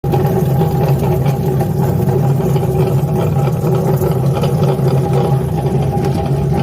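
Electric potato peeling machine running steadily, its 0.75 kW motor giving a loud, even hum.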